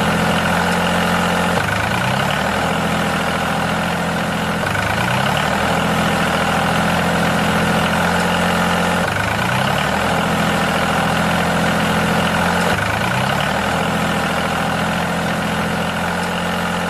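Engine idling steadily, with a brief rise in pitch every three to four seconds.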